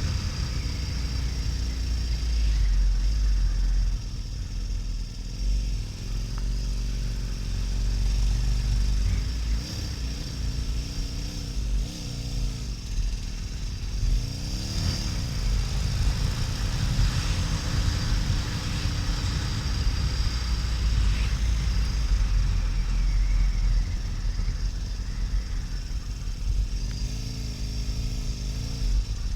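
Harley-Davidson XL1200N Nightster's 1200 cc air-cooled V-twin engine running under way, over heavy wind rumble on the microphone. The engine note rises and falls several times.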